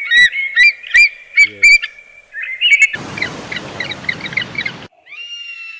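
Birds chirping in short bursts, first with sharp clicks among the chirps. About three seconds in, the sound changes abruptly to rapid, dense chirping over a hiss. A single pitched call follows near the end.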